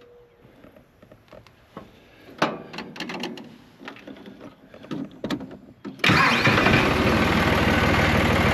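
Tractor engine being started: scattered clicks and knocks for the first few seconds, then about six seconds in the engine catches and runs loudly and steadily.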